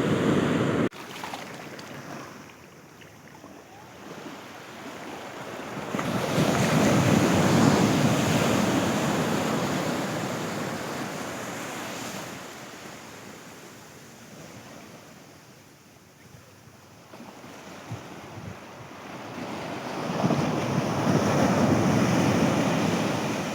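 Sea surf breaking and washing up a beach in two long swells, the first a few seconds in and the second near the end, with wind on the microphone.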